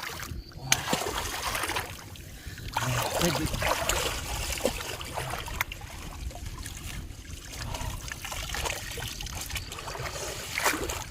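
Shallow river water splashing and trickling in uneven spells, with a few sharp knocks, as a bamboo polo trap is worked in the water.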